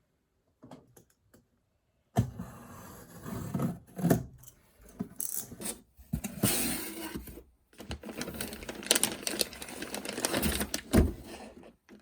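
Close, irregular clicking and rustling that starts about two seconds in, after a short silence.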